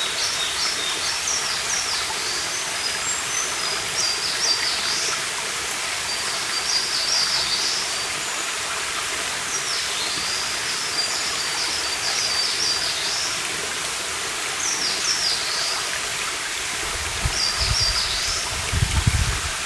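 A stream running steadily, with birds singing over it in short high phrases every second or two. A few low thumps come near the end.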